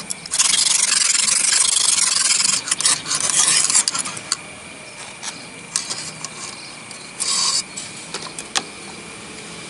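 Sharpening stone of a Lansky-style guided knife-sharpening jig rasping along a kitchen knife's edge: a steady run of strokes for about three and a half seconds, then scattered clicks and one short stroke about seven seconds in.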